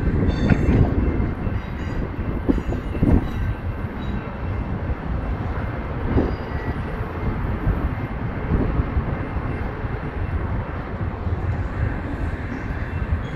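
Double-stack intermodal freight train's well cars rolling past: a steady rumble of steel wheels on rail, with occasional short knocks and clanks from the cars and a few faint high squeals in the first few seconds.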